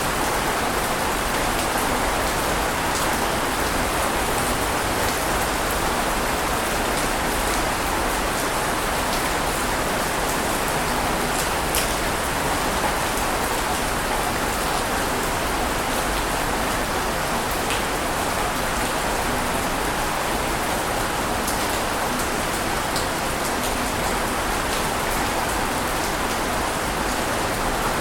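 Steady rushing water noise, even in loudness throughout, with faint scattered crackles and no rise and fall of separate breaking waves.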